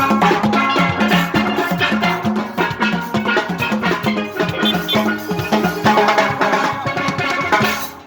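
Steel pan band playing a lively rhythmic tune, many ringing pan notes over drums and percussion.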